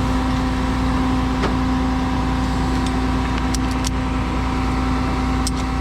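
Engine idling steadily, with a few light clicks and taps about three and a half seconds in and near the end.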